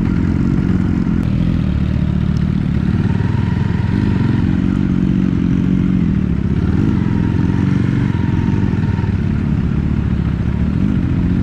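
KTNS RA2 Cyclone 250 motorcycle engine running at low revs while the bike creeps along at walking pace, with a few small rises and dips in pitch as the throttle changes.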